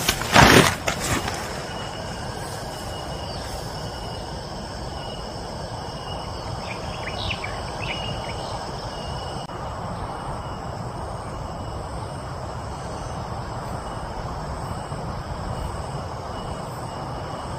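Steady heavy rain falling, with insects keeping up a shrill, continuous high buzzing above it. A loud rush of noise in the first second, and a few short chirps about seven seconds in.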